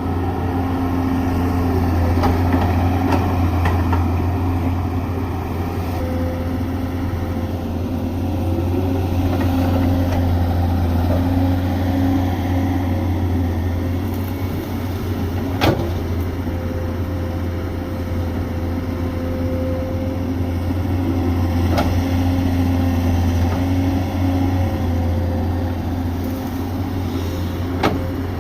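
Excavator's diesel engine running steadily, swelling and easing as it works, with a whine that comes and goes. Two sharp knocks, one about halfway through and one near the end.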